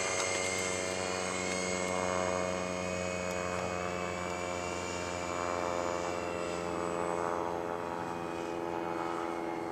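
Radio-controlled Airbus A380 model airliner in flight, its motors giving a steady, many-toned whine as it climbs high.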